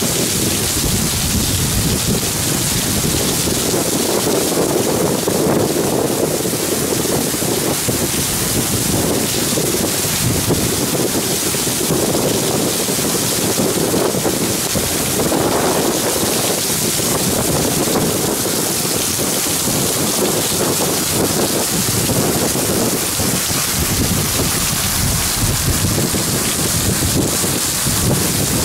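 Thunderstorm downpour: heavy rain hissing steadily onto the flight deck while strong wind buffets the microphone in uneven gusts.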